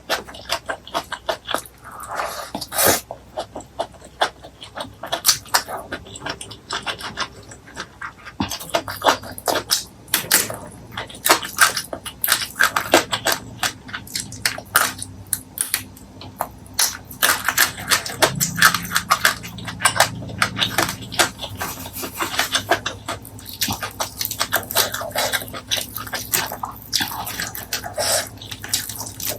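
Close-miked chewing and mouth sounds of a meal of fried fish, rice and chili sauce: a dense, irregular run of wet smacks and clicks.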